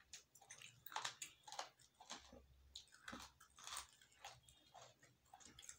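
A man chewing fried chicken close to the microphone: faint, irregular wet smacks and clicks of the mouth, about two a second.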